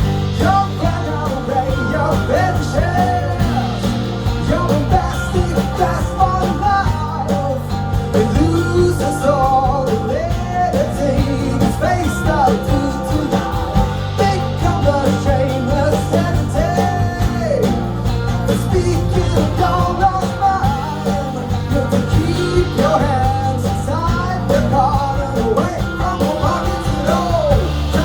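A rock band playing an instrumental passage: drums and bass under a lead melody with bending, sliding notes.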